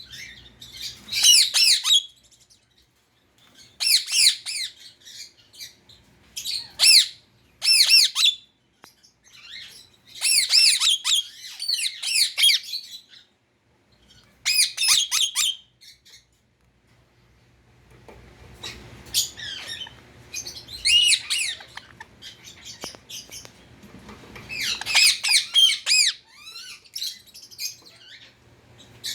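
Indian ring-necked parakeet squawking: bouts of short, harsh, high-pitched calls, several calls to a bout, with pauses of one to two seconds between bouts.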